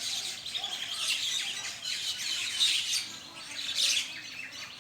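Flock of common mynas calling together, many overlapping chirps and chattering calls with a few louder calls standing out.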